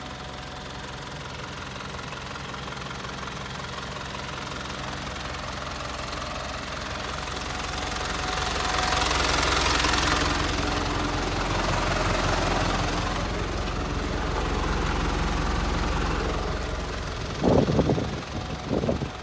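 Hino S05D diesel engine of a Hino Dutro truck running steadily at idle, growing louder about eight seconds in and easing back a few seconds later. Irregular low thumps near the end.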